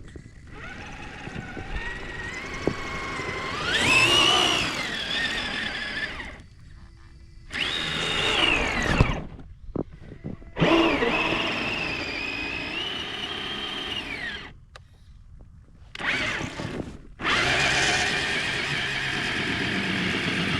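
Electric motor and drivetrain of a radio-controlled truck whining, its pitch rising and falling with the throttle in about five bursts separated by short pauses.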